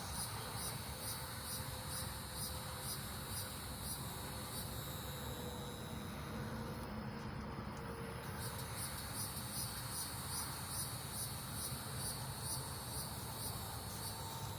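Crickets chirping in a steady repeating rhythm, with a brief break about halfway through, over a steady low noise.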